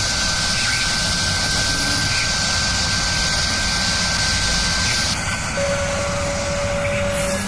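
Automatic multi-function drilling machine running: a steady mechanical whir with a high hiss that stops about five seconds in, followed by a steady low hum tone near the end.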